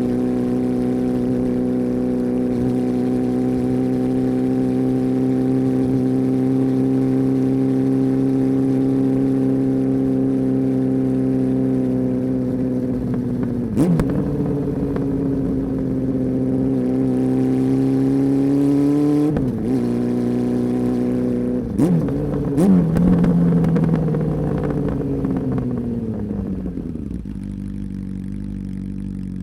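Honda CB400 Super Four's inline-four engine and exhaust running at steady revs, with brief dips in pitch about 14 and 19 seconds in. From about 22 seconds in the revs fall away, settling to a lower idle near the end.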